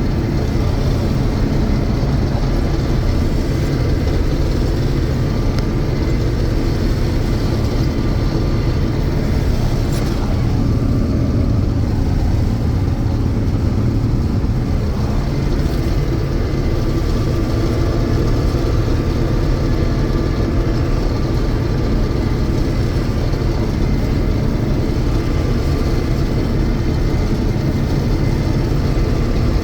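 A 1982 John Deere 6620 Turbo combine running steadily while harvesting soybeans: a constant, even drone of engine and threshing machinery, with a faint steady whine above it.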